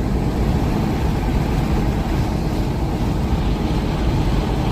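Steady low rumble of a vehicle driving on the open road, engine and tyre noise with no change in pace.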